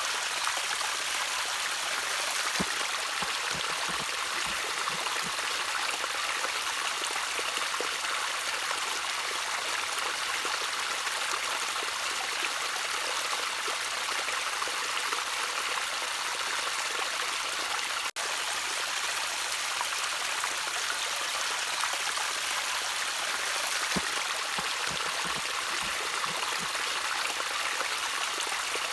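Water trickling and babbling steadily in a small stream, with a few lower gurgles and drips here and there. The sound cuts out for an instant about two-thirds of the way through.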